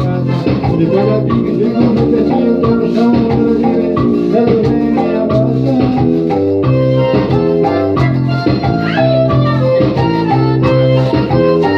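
Electronic keyboard playing an instrumental passage: held chords over a bass line, with a steady beat.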